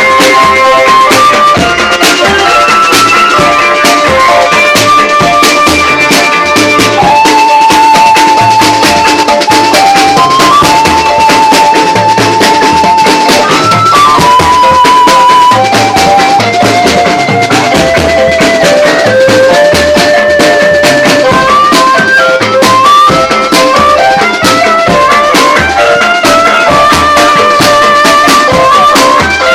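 Band playing loud music at a sound check: a held, ornamented melody line over a steady drum beat and a shaker rhythm.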